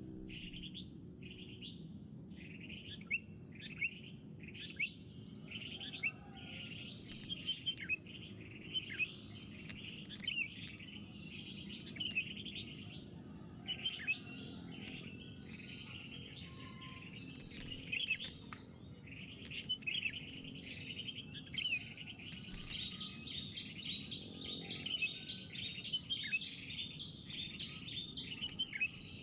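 Small birds chirping over and over in short, quick calls. About five seconds in, a steady high insect drone joins in and keeps on.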